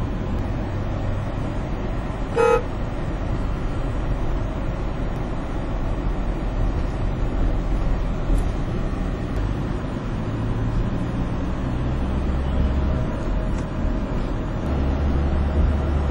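Steady highway traffic noise with a low engine rumble, and one short vehicle horn toot about two and a half seconds in.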